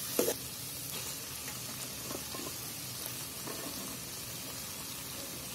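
Potatoes frying in oil and spice masala in a steel kadai, a steady sizzle, with one short knock of the steel ladle against the pan right at the start.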